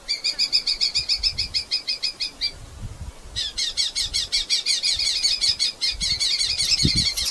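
Red-footed falcon calling in rapid runs of sharp, high repeated notes, about seven a second. One run breaks off after about two and a half seconds, and a second, longer run starts about a second later.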